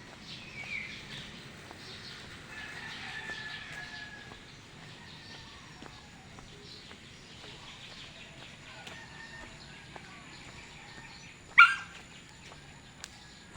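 Birds calling and chirping, with a longer held call in the first few seconds and one loud, sharp downward call near the end, over a faint steady high whine.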